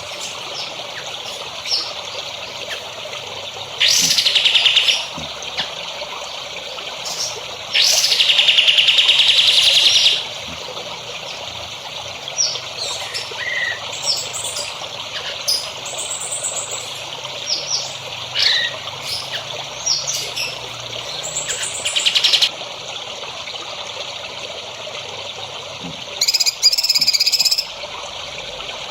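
Songbirds chirping and trilling over a steady trickle of running water. Loud, rapid buzzing trills come in about 4 seconds in, again for about two seconds from 8 seconds, and once more near the end.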